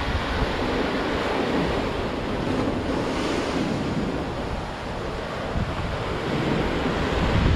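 Sea waves breaking and washing up the shore in a continuous surf, one wash swelling about three seconds in and a deeper rumble of surf building near the end.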